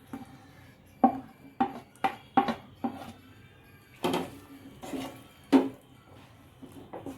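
A spatula knocking and scraping against a cooking pan, about ten irregular strikes, while chicken strips are stirred into a thick sauce.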